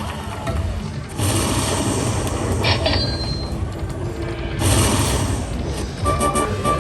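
Slot machine electronic sound effects over casino floor noise: two whooshing swells, a short high chime near the middle, and a tinkling electronic jingle starting near the end.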